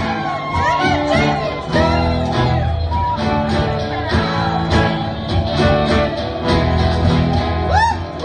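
Live rock band playing an instrumental passage with guitar, bass and drums, a lead line bending notes up and down near the end.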